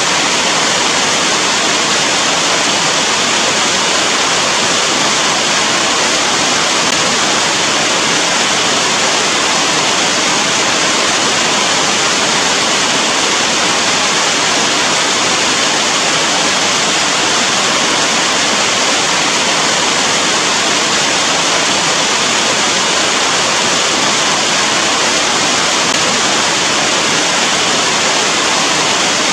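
Steady, even rainfall hiss with no breaks and no single drops standing out.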